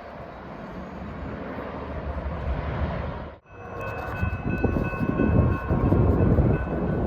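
A rising rushing noise cuts off abruptly about halfway through. It is followed by a train passing close: a loud low rumble with pulsing wheel noise and thin, steady high-pitched squeals that come and go.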